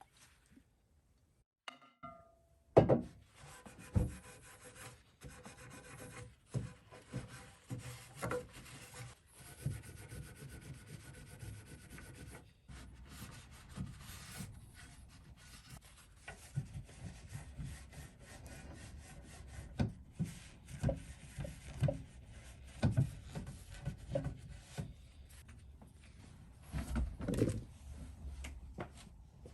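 Hand rubbing on a wooden surface, as in sanding or wiping down a wooden cabinet or drawer, with a continuous scratchy texture broken by scattered knocks of wood. After a short quiet start, the loudest knock comes about three seconds in.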